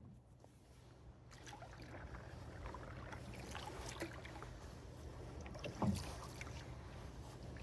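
Canoe being paddled: the splash and drip of paddle strokes in the water with small clicks, building after the first second, and one louder knock about six seconds in.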